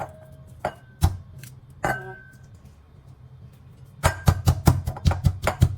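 Pestle pounding unpeeled garlic in a mortar, each strike a sharp knock with a brief ring. A few separate strikes at first, then fast steady pounding, about five strikes a second, from about four seconds in.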